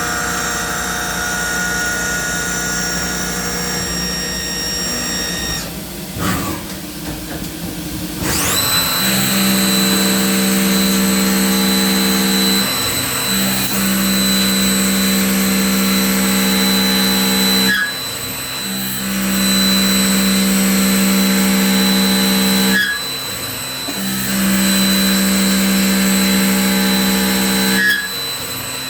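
CNC lathe's driven milling tool spinning and cutting metal with a steady high whine. About a third of the way in the spindle drops off, then spins back up with a rising whine and settles into a steady cut. The cut breaks off briefly about every five seconds between passes.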